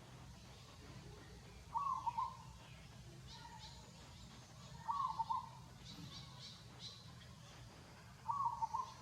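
A bird calling: a short phrase of a few quick notes, repeated three times about three seconds apart, over faint higher chirping.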